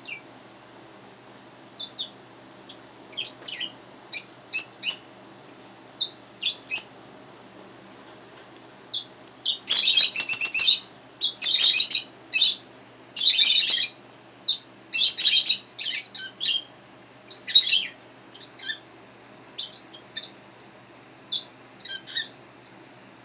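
A bird chirping and squawking in short bursts of quick, high notes, densest and loudest from about ten to sixteen seconds in.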